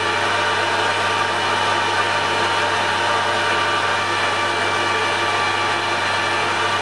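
Metal lathe running at a steady speed, an even motor-and-gear hum with a whine, while a centre drill cuts a deep centre hole in the workpiece.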